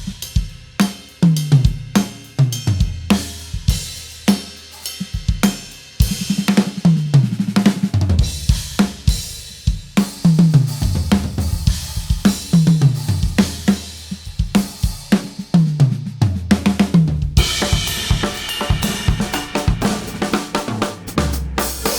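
Acoustic drum kit (Sonor SQ1) played as a groove with repeated tom fills that run down from the high toms to the floor toms, over bass drum, snare and cymbals. The toms are fitted with Evans HD Dry heads, which keep them short and dry with a defined attack. Cymbals wash more heavily from about three quarters of the way through, and the playing stops abruptly at the end.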